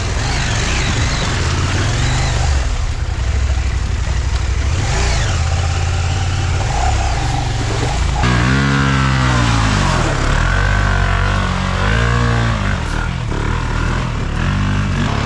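Adventure motorcycle engines revving, with the pitch sweeping up and down repeatedly from about halfway through, over background music.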